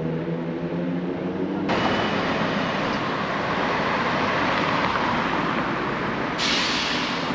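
Road traffic noise, a steady rushing wash that starts abruptly about two seconds in and briefly grows brighter near the end. Before it there is a low steady hum of several tones.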